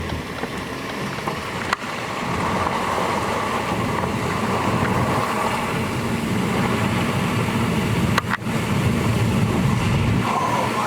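Strong wind blowing over the microphone, a steady rushing noise with brief dropouts twice.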